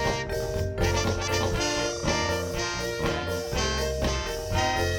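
Live band with a horn section of saxophone, trombone and trumpet playing an instrumental passage of short rhythmic horn phrases over bass and drums.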